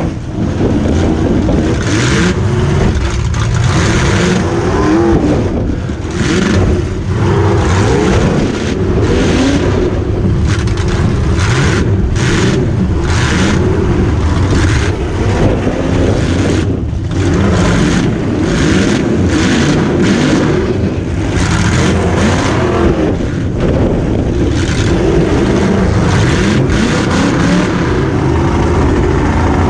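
V8 demolition derby car's engine revving hard and falling back, heard from inside the car, with repeated bangs of impacts scattered throughout.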